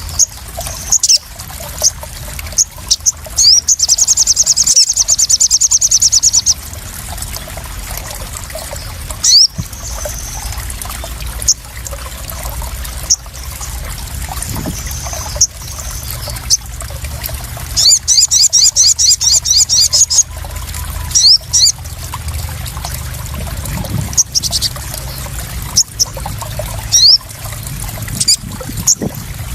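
Small songbirds calling: short, sharp, high chirps, with two long, rapid, high trills about four and eighteen seconds in. Beneath them runs a steady trickle and splash of water.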